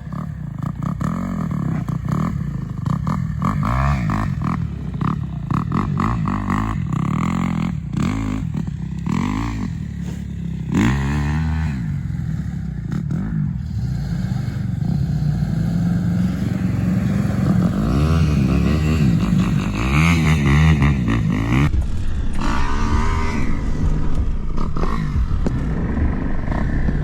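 Motor vehicle engine running and revving up and down again and again, its pitch rising and falling every couple of seconds, with rattling noise over it.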